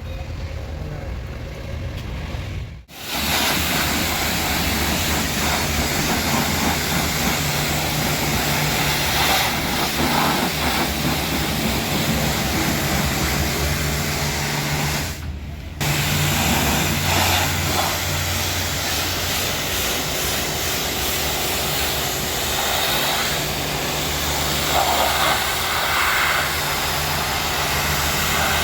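Pressure washer spraying a car with a steady hiss over the low hum of its pump. The spray starts about three seconds in and drops out briefly about halfway through. Before it starts, only the low hum is heard.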